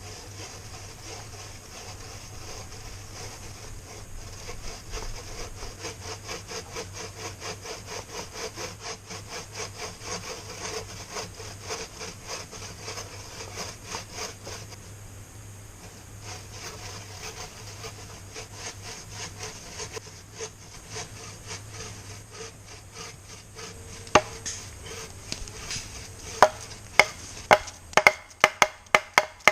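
Bucksaw (frame saw) cutting wood in steady back-and-forth strokes, with a short pause partway through. Near the end come a few sharp, louder wooden knocks.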